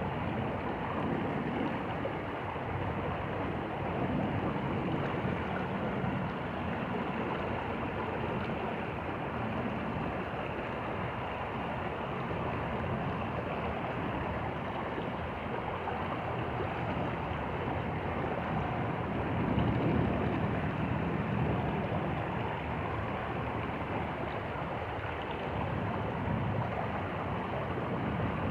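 Stream water running steadily over stones, a constant rushing with a slight swell about two-thirds of the way through.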